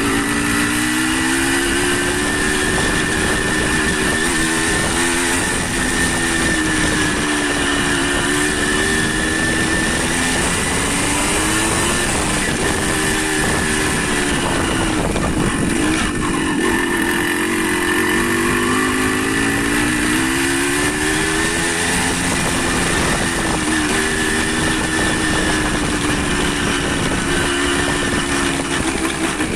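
Motorcycle engine running under way, its pitch rising and falling again and again with throttle and speed, over a steady rushing noise.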